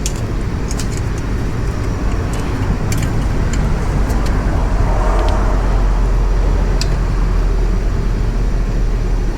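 Steady low background rumble, swelling slightly midway, with a few light metallic clicks of hand tools being handled on the motorcycle.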